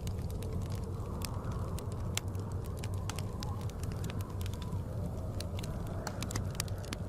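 Wood fire crackling in a fireplace, with many irregular sharp pops and snaps over a low steady rumble of blizzard wind.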